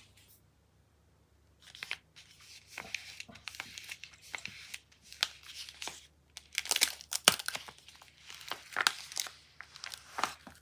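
A soap wrapper being torn open and crinkled by hand, in irregular crackling rustles that start about two seconds in.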